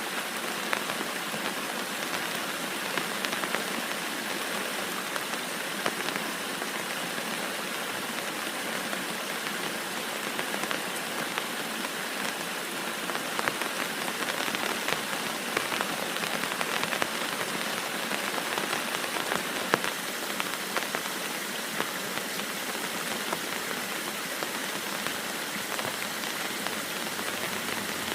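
Heavy rain falling steadily, a constant hiss dotted with many separate drop hits.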